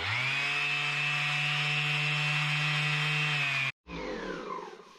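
Electric orbital sander switched on and running at a steady full speed. Near the end it is switched off and winds down, its whine falling in pitch.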